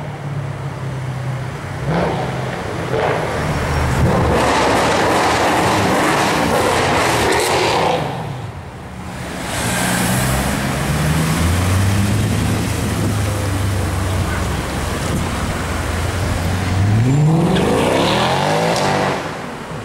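Mercedes-AMG C63 V8 through an aftermarket iPE exhaust, driven hard. It is loud and rushing for several seconds, eases off briefly, runs at a steady engine note, then revs up in a rising sweep near the end.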